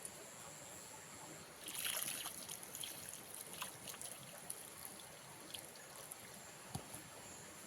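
Faint trickling water, with a brief hissing splash about two seconds in and a few light clicks.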